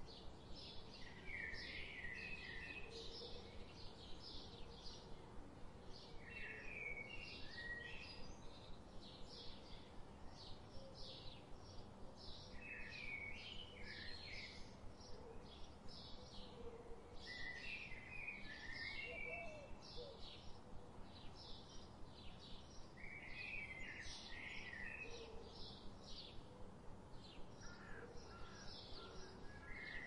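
Birdsong: a short chirping phrase repeats about every five or six seconds over a steady run of quick high notes, about three a second, with fainter lower calls in the background.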